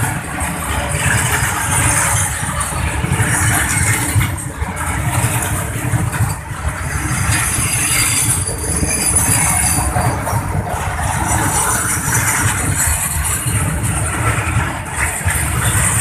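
Long freight train of open box wagons rolling past, a steady rumble of steel wheels on the rails.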